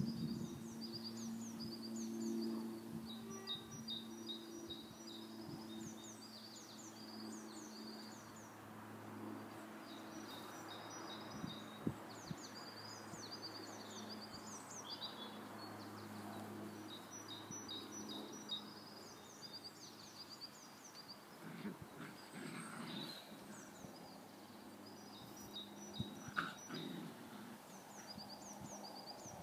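Small birds chirping in short repeated phrases over outdoor background noise, with a faint steady low hum that fades out about halfway through.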